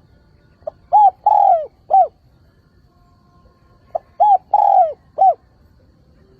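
Spotted dove cooing: two identical phrases about three seconds apart. Each is a short pickup note followed by three falling coos, the middle one the longest.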